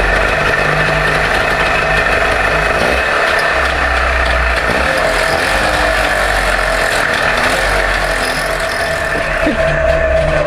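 Engine of a modified Trabant running steadily at idle.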